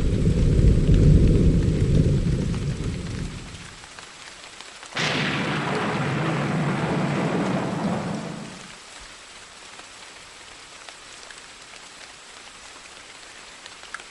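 Thunderstorm with steady rain: a low rumble of thunder dies away in the first few seconds, then a sharp thunderclap about five seconds in rolls on for three or four seconds before fading, leaving the even hiss of rain.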